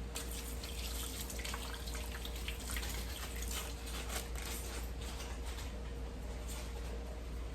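Water from a kitchen tap running and splashing in a sink, with many small, sharp splashes or knocks throughout.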